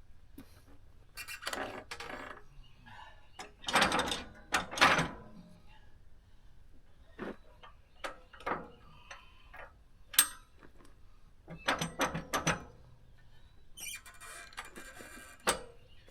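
Scattered clanks, knocks and scraping from handling the log and metal fittings on a portable bandsaw mill's bed, in separate bursts with the loudest a few seconds in and around the middle.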